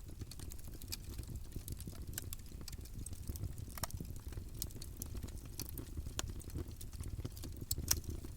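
Campfire burning: a steady low rumble of flames with irregular crackles and pops from the burning wood, one louder pop near the end.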